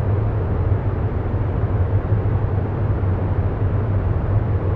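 Steady, even rumbling noise with a deep, constant hum underneath: a continuous ambient background bed that does not change.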